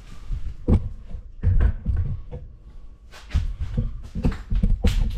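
Irregular knocks and low thuds of hands handling the rammer's fuel lines, filter and parts, in about five separate bumps.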